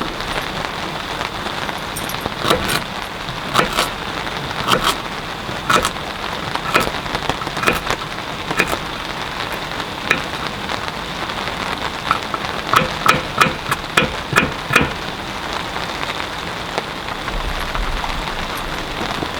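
Steady rain falling, with frequent sharp drops hitting close by at irregular intervals.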